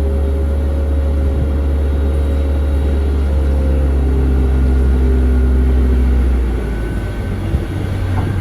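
Jet airliner engines running: a loud low rumble with steady whining tones above it, which drops away about six and a half seconds in.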